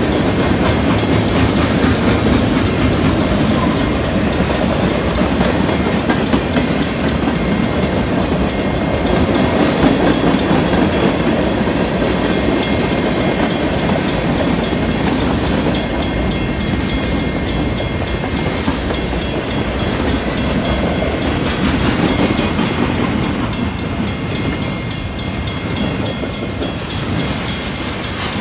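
Freight cars of a long freight train rolling past, steel wheels running on the rails. The sound is steady and eases a little near the end.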